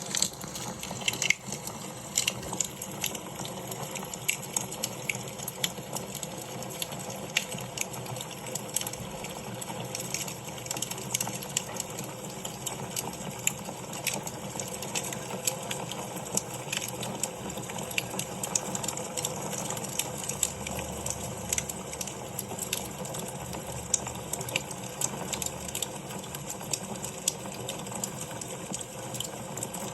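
Wood fire burning in a fireplace, crackling and popping at irregular intervals over a steady low hiss of flame.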